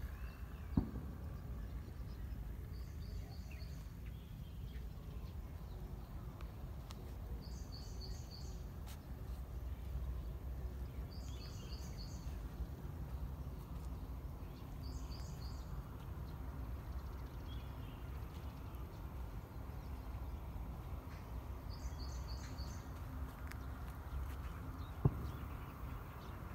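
Outdoor field ambience: a steady low rumble with a bird repeating a short call of three or four quick high notes every few seconds. Two sharp knocks, one just under a second in and one near the end.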